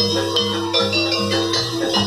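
Live jaranan campursari ensemble music: pitched percussion notes repeating over a steady, even beat.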